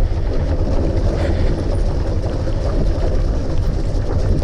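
Motorcycle engine running steadily under way, with a constant low drone and road noise.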